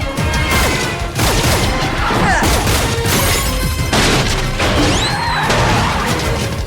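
Film car-chase soundtrack: dramatic score music mixed with repeated crashes and metal impacts, and a short rising squeal about five seconds in.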